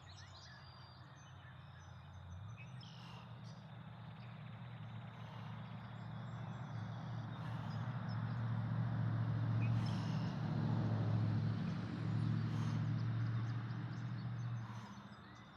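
A motor's low, steady drone that builds over several seconds and drops away near the end, with faint birds chirping behind it.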